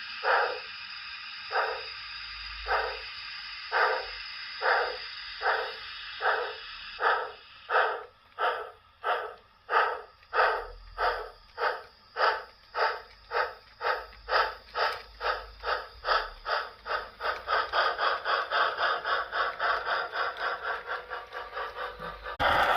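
H0 model BR 02 steam locomotive's sound decoder chuffing as the engine pulls away, the exhaust beats steadily speeding up from about one a second to several a second. Just before the end a louder rushing noise cuts in.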